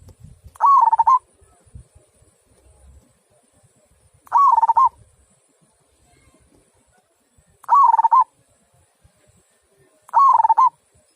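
Zebra dove (perkutut) cooing: four short warbling coos, each about half a second long and spaced about three seconds apart.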